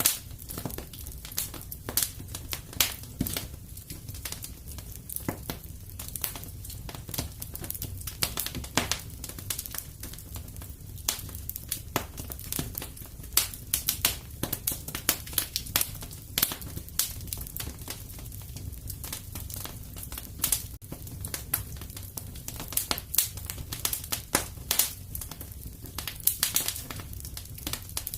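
Wood fire crackling in a fireplace: a constant scatter of irregular pops and snaps over a low steady rumble.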